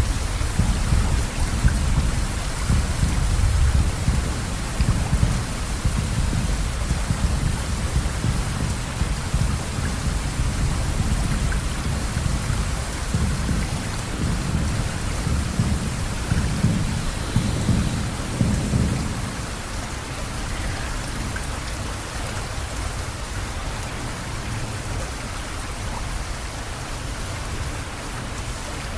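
Steady rain falling, with a deep rumble underneath that eases off about two-thirds of the way through.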